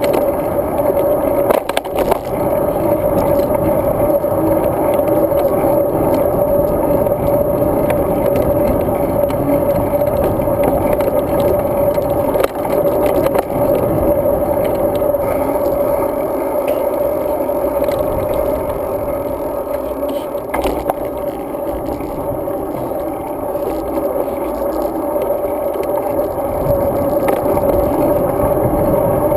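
Road bike ride heard through a GoPro camera: a steady hum with wind and road noise, and scattered rattles and knocks as the bike goes over bumps.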